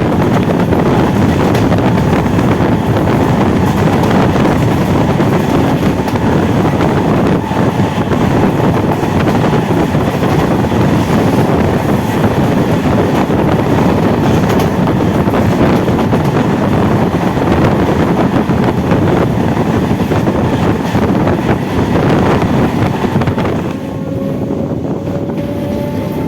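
MEMU electric train running at speed, a loud steady rush of rail noise and wind on the microphone that eases a little near the end.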